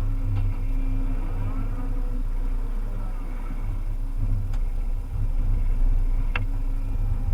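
Volvo EC300E excavator's diesel engine running steadily while the machine works, its low hum rising and falling slightly. Two sharp clicks come in the second half, the second ringing briefly.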